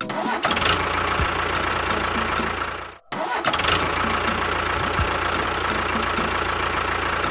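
Engine running steadily with a low rumble, broken off by a brief cut about three seconds in and then starting again.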